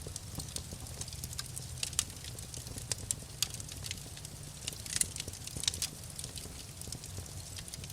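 Wood fire crackling and popping, with irregular sharp snaps, a cluster of louder ones about five seconds in, over a low steady rumble of the flames.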